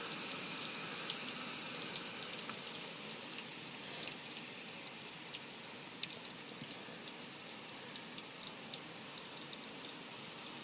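Heavy hurricane rain falling steadily, an even hiss with scattered ticks of individual drops close by.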